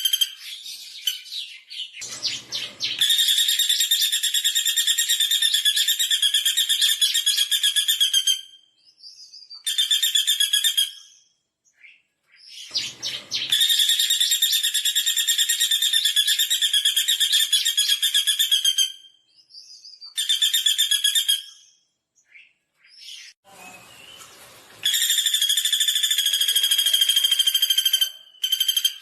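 Pelatuk bawang woodpecker calling: three long, fast trills of high notes, each about five seconds, with a short trill of about a second after the first two. A brief, lower rattling burst comes just before each long trill.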